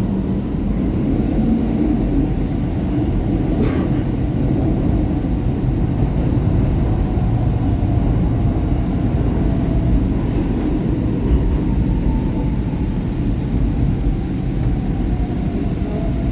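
SEPTA Market-Frankford Line subway train running, heard from inside the car: a steady loud rumble of the wheels on the rails and the car. About three and a half seconds in there is one brief sharp high sound.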